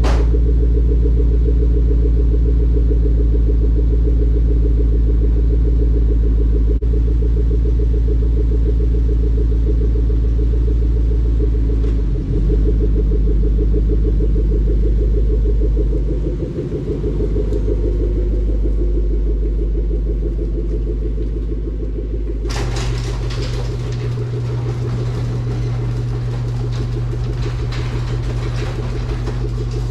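Ford Coyote 5.0 V8 of a 2014 Mustang GT idling steadily through a Roush axle-back exhaust on a cold start after new spark plugs. About three quarters of the way in, a rougher, rattly hiss joins the deep idle note.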